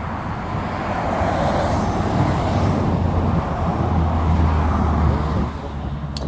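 A road vehicle passing by: its noise and low hum swell from about a second in and fade away about five and a half seconds in.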